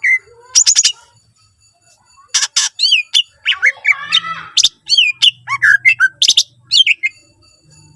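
Green leafbird (cucak ijo) singing loudly. A quick run of sharp chirps comes near the start, then after a short pause a dense stretch of varied chirps, trills and down-sweeping whistles runs for several seconds and stops near the end.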